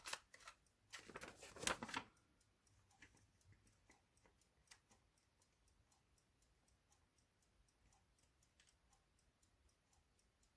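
A few sharp clicks and rustles of paper as a journal page's corners are cut round, all in the first two seconds, then near silence with faint scattered ticks.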